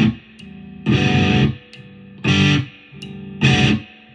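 Electric guitar, a copy of a B.C. Rich Ironbird, played through distortion: short chords struck about a second apart, with a lower tone ringing between them, the last chord left to ring and fade out near the end.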